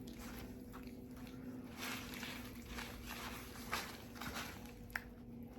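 Soft rustling and handling sounds over a steady low electrical hum, with one short sharp click near the end.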